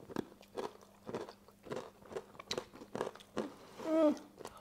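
Close-up chewing and biting of crunchy food, a string of irregular sharp crunches and mouth clicks. About four seconds in, a brief hummed voice sound that dips in pitch.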